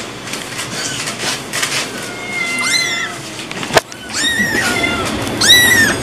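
Young kitten mewing: several short, high-pitched mews, some rising then falling, bunched in the second half. A single sharp click a little past the middle.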